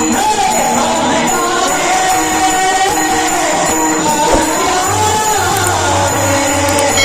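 A man singing a Marathi devotional song with melodic ornaments, over musical accompaniment with jingling percussion.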